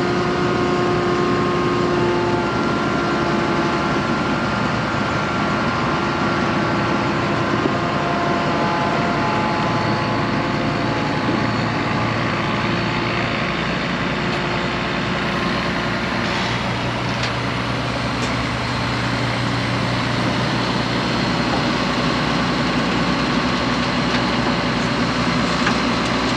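Combine harvester's diesel engine running steadily, its hum shifting slightly in pitch partway through.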